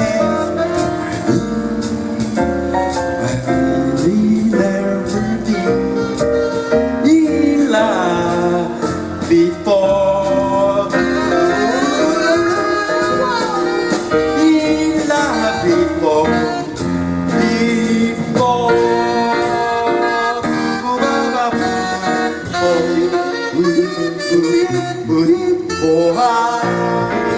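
Live jazz band playing an instrumental passage: a melodic lead line over piano, bass and drums, with crisp, regular percussion taps.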